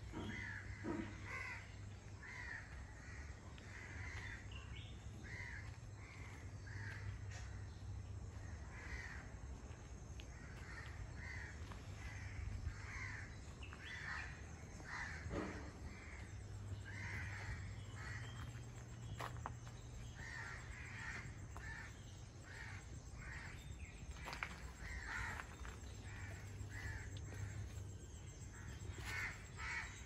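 Birds calling over and over in short, repeated calls, with a steady low hum underneath.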